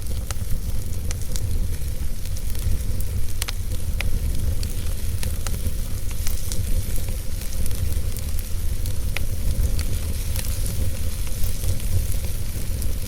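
Fireplace fire burning: a steady low rumble with scattered sharp crackles and pops.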